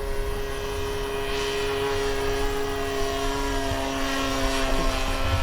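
Engine of a 1:6.5 scale RC Cessna 182 droning steadily in flight, its pitch held nearly constant.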